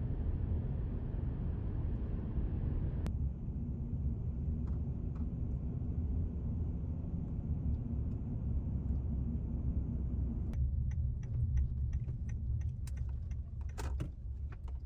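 Steady low road rumble heard from inside a moving minivan. About two-thirds of the way through, a run of light, irregular clicks and ticks joins it.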